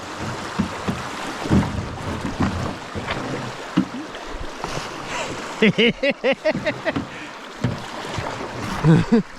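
River water rushing around a canoe on the move, with a few dull knocks. About six seconds in comes a run of short, quick voiced cries, and a couple more near the end.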